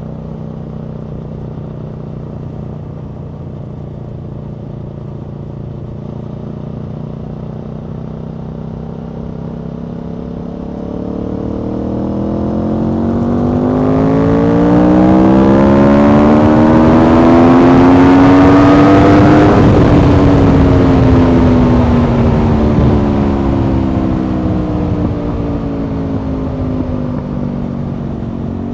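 Aprilia Tuono V4's V4 engine under riding load: a steady drone, then the rider opens the throttle and the engine note climbs smoothly and gets much louder with rising wind rush. A little past the middle the throttle is rolled off and the pitch falls away again.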